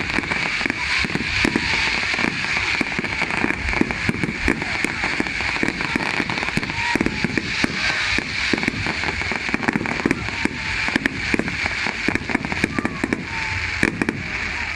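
Fireworks going off in a dense, continuous barrage of crackling and popping, with many sharp reports overlapping.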